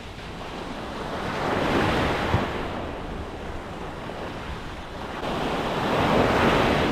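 Ocean surf breaking and washing up the beach, swelling twice, about two seconds in and again near the end, with wind buffeting the microphone.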